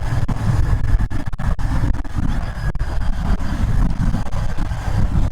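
Royal Enfield Interceptor 650's parallel-twin engine running steadily at road speed through an aftermarket exhaust, mixed with wind rushing over the rider's microphone.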